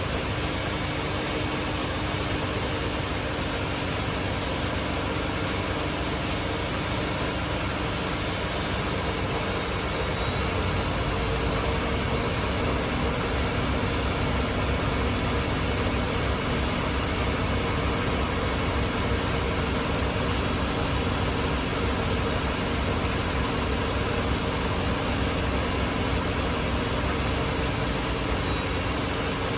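Two Hotpoint Aquarius washing machines, a WMA37 and a WMA48, spinning at high speed in their final spin: a steady rushing drum-and-motor noise with a high whine. It grows slightly louder about ten seconds in.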